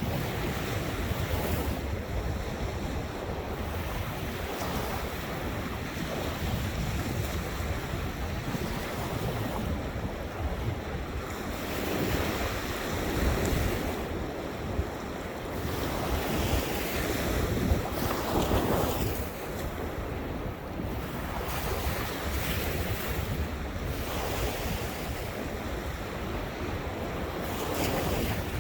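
Ocean surf: waves breaking and washing in, swelling every few seconds, with wind rumbling on the microphone.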